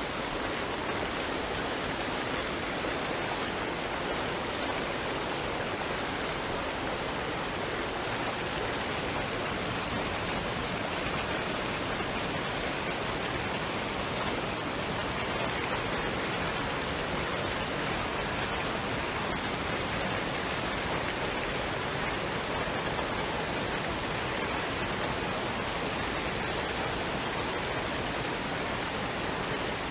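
Waterfall and stream running water: a steady, even rush of falling water with no breaks.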